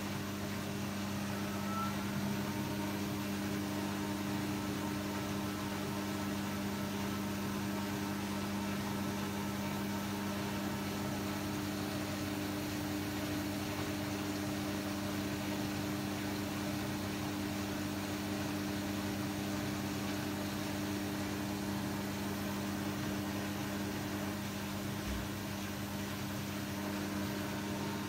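A steady mechanical hum with a low drone over an even hiss, unchanging throughout.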